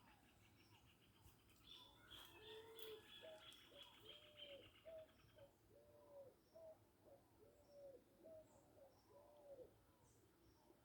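Faint bird calls: a run of about eight short, low, arched notes, roughly one a second, with a fast high trill underneath that stops about halfway through.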